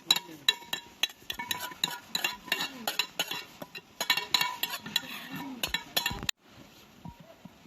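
A utensil stirring and clinking repeatedly against a dish, in quick irregular taps, cutting off abruptly about six seconds in.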